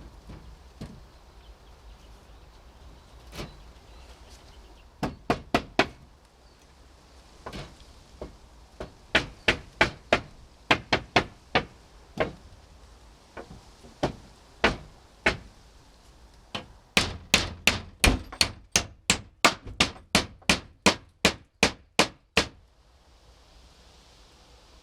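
Hammer blows on wood, in several runs of sharp strikes; the last run is the fastest, about three strikes a second, and stops a couple of seconds before the end.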